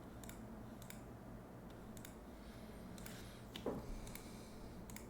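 A handful of short, sharp computer mouse clicks spaced irregularly, with one louder dull knock about three and a half seconds in, over a low steady hum.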